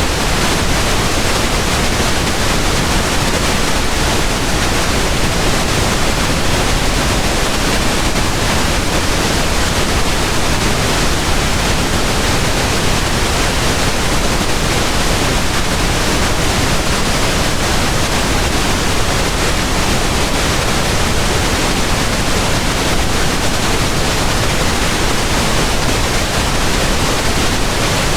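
Steady pink noise: an even, unchanging hiss spread across all pitches, with no events.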